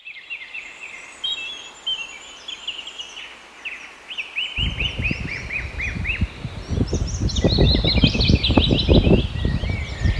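Small birds chirping and calling in a busy chorus of short, quickly repeated notes. About halfway through, a low rushing noise cuts in abruptly and grows louder, becoming the loudest sound by the end.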